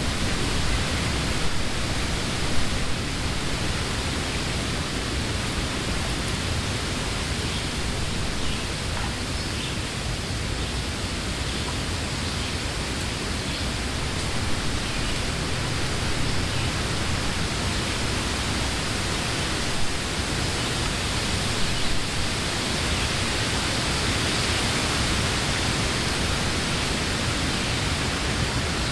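Steady wind blowing through trees, an even rushing of leaves with a low rumble of wind on the microphone.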